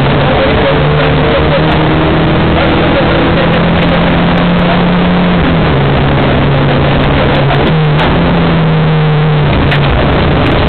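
Rally car engine running hard, heard from inside the cabin: a steady, loud engine note that drops about halfway through, climbs again a couple of seconds later and drops once more near the end, as the driver lifts and shifts on a special stage.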